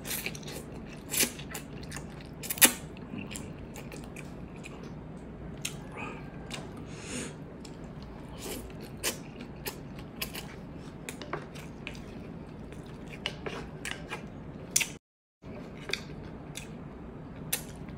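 Close-miked chewing of instant noodles and rice, with many short wet mouth clicks and smacks.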